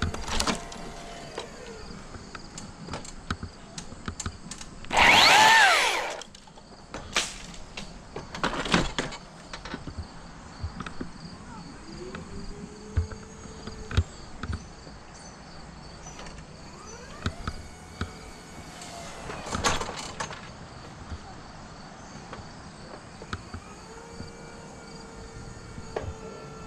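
Boom lift's hydraulic motor whining several times as the boom is moved, each whine rising and falling in pitch, with scattered knocks and clatter. About five seconds in there is one short loud burst with a falling pitch.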